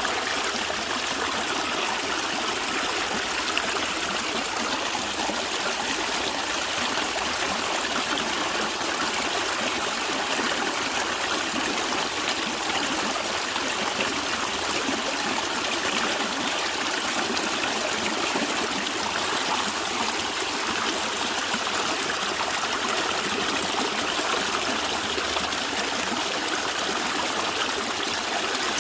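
A natural stream of water running and gurgling, a steady unbroken rush.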